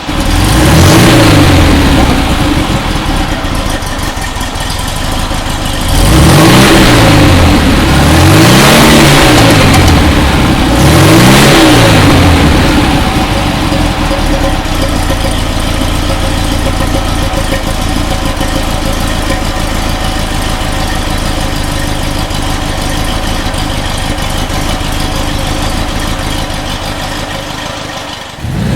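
1968 Porsche 912's air-cooled flat-four, rebuilt with 86mm pistons and cylinders and a Neutek SX-1 cam, revved up and back down about a second in, then blipped three times in quick succession, each rev rising and falling, before settling into a steady idle.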